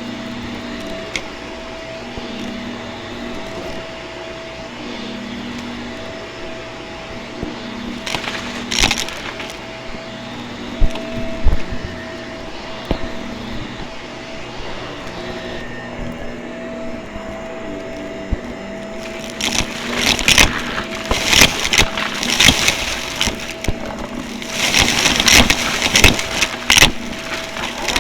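Vacuum cleaner running with a steady motor hum and whine, broken by crackling, rattling bursts that come thicker and louder in the last third.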